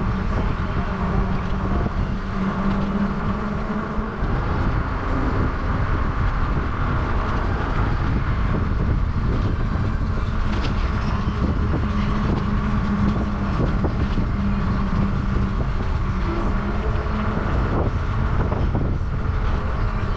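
Wind rushing over the microphone while riding a bicycle, with a steady low hum underneath.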